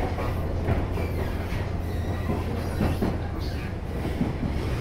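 Senboku Rapid Railway 3000 series electric train running at speed, heard inside the passenger car: a steady low rumble of wheels and running gear with a few clacks from the wheels over the rails.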